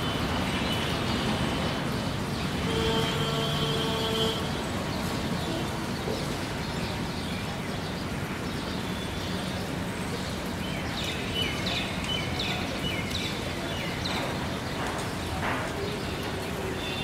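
Steady rolling rumble of a long passenger train's coaches running along the track, easing slightly toward the end. A short high tone sounds about three seconds in, and a few short high chirps come near the end.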